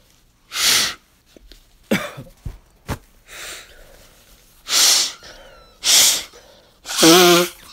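A person blowing their nose hard four times in short, hissing blasts of about half a second each. The last and longest blow carries a wavering, honking tone: the funny noise the nose makes when blown. A few small clicks come between the first and second blows.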